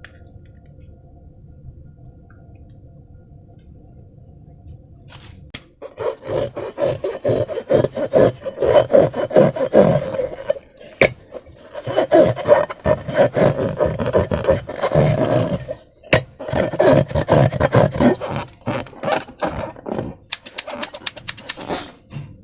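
Slime being squeezed and kneaded by hand: wet squelching and crackling in quick clusters with brief pauses, starting about six seconds in after a faint low hum. Near the end comes a short run of rapid, fine clicks.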